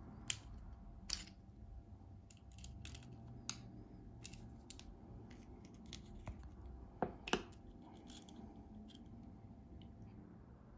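Irregular small, sharp clicks and taps of a Ford remote key's plastic casing being handled and taken apart, with louder snaps near the start, about a second in, and two close together about two-thirds through.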